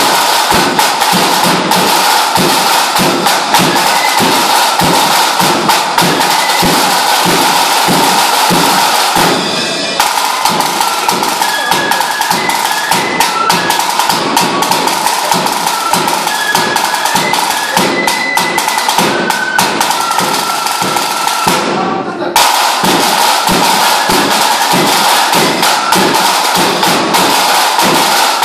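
Lambeg drumming: the huge drum beaten with two thin canes in a loud, fast, unbroken rattle of strokes. The sound dips briefly twice, about ten seconds in and again past twenty seconds.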